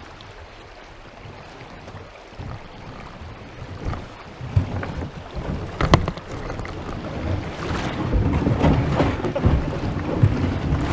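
Wind on the microphone. From about four seconds in, a kayak's hull scrapes and grinds over the shallow creek bed as it is pushed off the ground, with water sloshing and a sharp knock about six seconds in.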